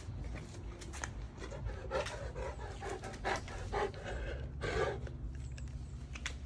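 Wet Saint Bernard panting, a run of quick breaths about two to five seconds in, over a steady low hum.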